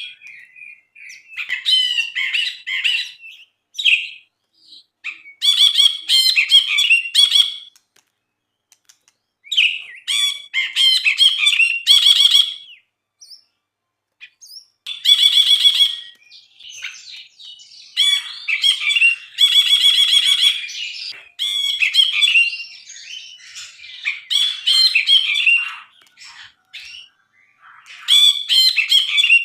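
A brinji, a bulbul, singing in loud bursts of rapid, varied chattering and whistled phrases, each a second or two long, with short pauses between them.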